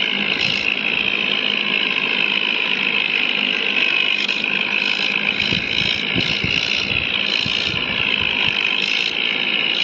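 Tractor engine running steadily, with a dense mechanical clatter and some low knocking about halfway through.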